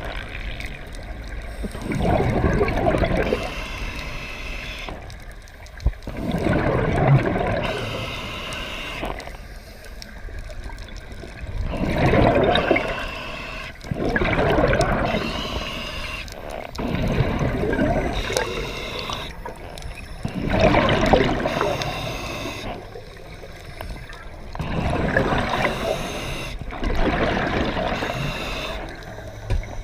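Scuba diver breathing through a regulator underwater: bursts of bubbling exhaust every few seconds, with quieter gaps between them.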